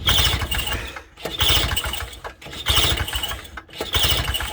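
Small two-stroke engine being pull-started four times in quick succession, turning over briefly with each pull but not catching.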